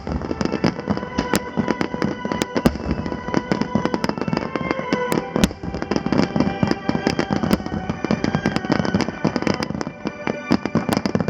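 Fireworks finale barrage: a dense, rapid run of shells bursting and crackling, many bangs a second with no break, while music plays alongside.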